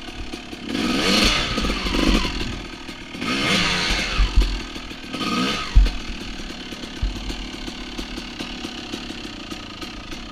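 Two-stroke dirt bike engine revved in short bursts, its pitch rising with each of about four blips in the first six seconds, then running more steadily at lower revs with a rapid clatter of clicks.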